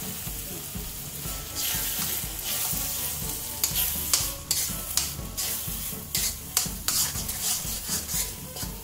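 Ground bhat (black soybean) paste sizzling as it is stirred into frying tomato-onion masala in an iron kadhai. A few seconds in, a metal spoon starts scraping and clacking against the pan in quick repeated strokes.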